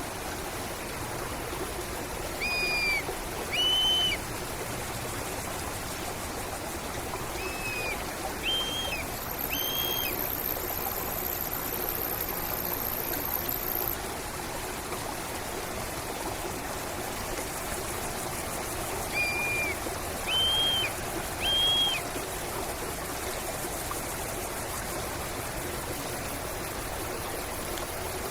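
Steady flow of a stream or river, with a bird repeating short, clear whistled notes in groups of two or three, several seconds apart. A thin, high-pitched hiss runs for a few seconds near the middle.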